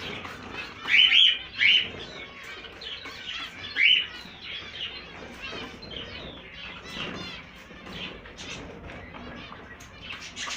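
Many caged pet birds in an aviary chirping continuously, with louder calls about a second in, again shortly after, and near four seconds in.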